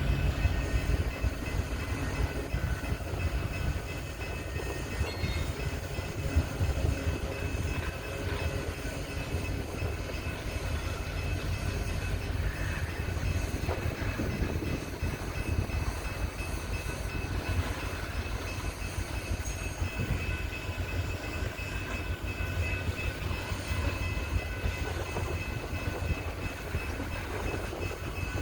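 Loaded coal train moving on the rails with a steady low rumble, and a faint steady high whine above it.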